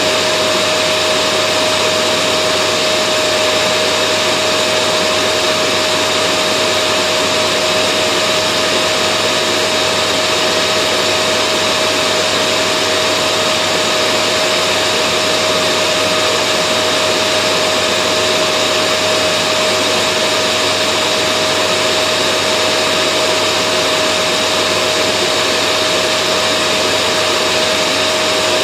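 Vacuum cleaner running continuously at a steady speed: an even, unchanging whoosh of motor and airflow with a steady mid-pitched whine, used as white noise to settle a baby to sleep.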